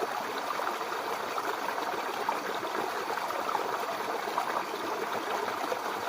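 Mountain river water flowing over rocks: a steady rush with small splashes and gurgles scattered through it.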